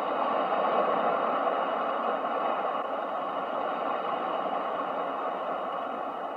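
Ocean waves: a continuous wash of surf noise that swells slightly about a second in and then slowly eases off.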